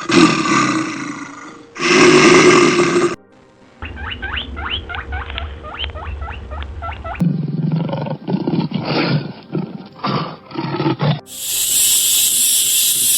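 A quick run of different animal calls. It opens with two loud roars, then comes a run of short rising chirps at about four a second, then a series of pulsing calls, and near the end a steady high hiss.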